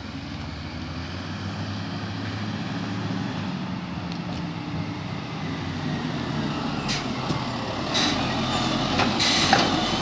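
Garbage truck's diesel engine running and growing gradually louder, with a few short sharp sounds in the last few seconds, the loudest just before the end.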